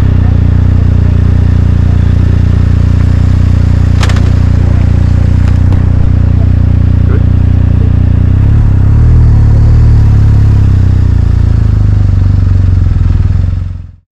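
BMW R 1250 RT motorcycle's boxer-twin engine running steadily, with a sharp click about four seconds in and a slight swell around nine seconds in, cutting off suddenly near the end.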